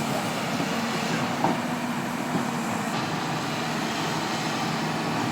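Excavator engine running steadily with a low, even hum.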